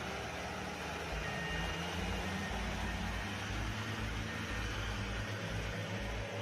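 Heavy construction machinery running steadily: a constant engine hum under a wash of mechanical noise.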